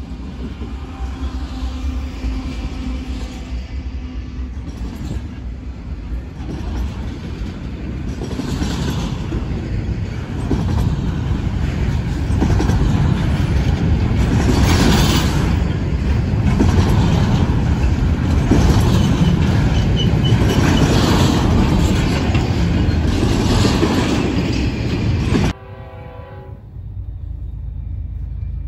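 Freight train passing close by: diesel locomotives and cars rumble and the wheels clatter on the rails, growing louder through the first half. The sound cuts off abruptly near the end to a quieter low rumble.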